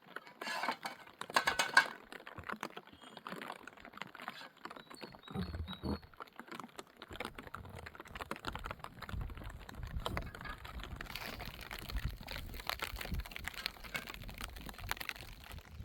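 Quick irregular clicks and clatters of small hard objects, loudest in a burst about a second in, over a low rumble that comes in later.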